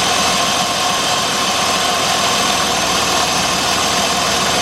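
Jeep 3.7-litre V6 idling steadily, with the ignition coils for cylinders 3 and 5 swapped to trace a misfire. In this state the idle is much improved.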